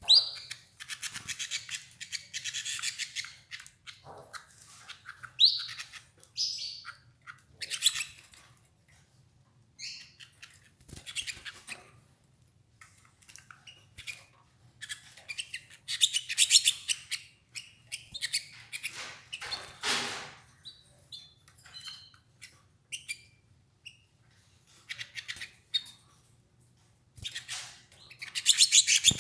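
Domestic canaries chirping and singing in short bursts of rapid high trills, a second or two each with brief pauses between.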